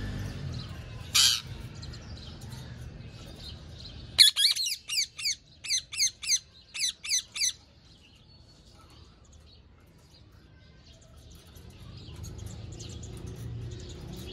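A parrot calling: one short harsh squawk about a second in, then a quick run of about ten loud, falling, chirping calls lasting some three seconds.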